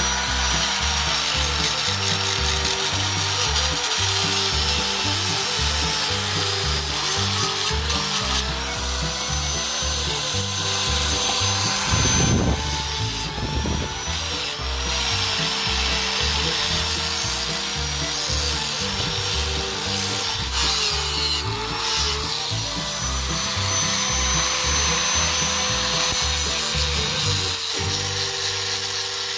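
A small electric power tool grinding or sanding metal, its motor whine steady with brief dips in pitch as it is pressed into the work.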